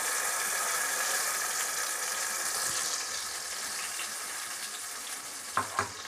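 Tomato paste sizzling in hot oil in a kadai, loudest at first and gradually settling. Two sharp knocks near the end.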